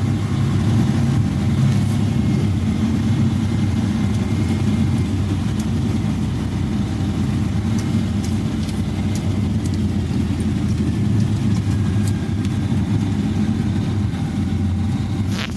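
Sander truck's engine running steadily at low speed, a low rumble heard from inside the cab, with a few faint ticks partway through.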